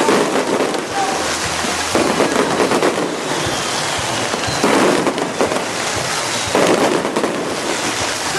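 Yanshui beehive rocket tower firing bottle rockets and firecrackers: a dense, continuous crackle of pops and whooshes that surges louder about every two seconds.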